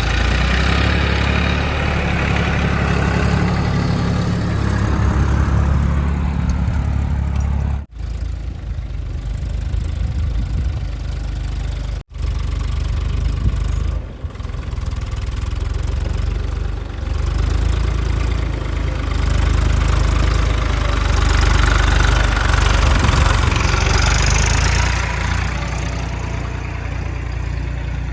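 JCB 3DX backhoe loader's diesel engine running under working load, steady with a heavier spell in the last third. The sound drops out and restarts abruptly a few times where clips are joined.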